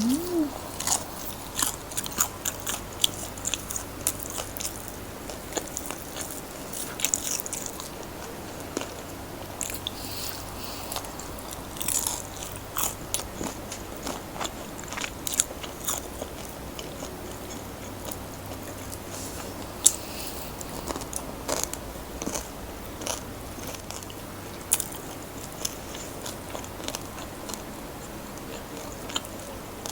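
Close-miked biting and chewing of crispy fried chicken: irregular bursts of sharp crunches from the fried coating, between quieter chewing.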